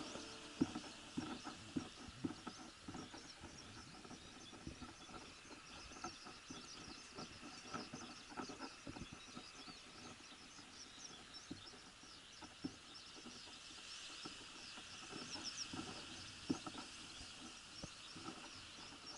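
Faint outdoor ambience: scattered small clicks and ticks, with faint high chirping calls of distant animals.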